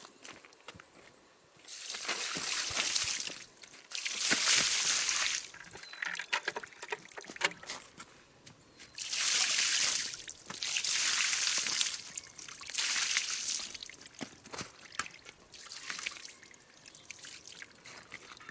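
Water splashing over scuffed metal sawmill rail parts in about six spells of a second or two each, with quieter gaps between: the parts are being rinsed down so they can drip dry.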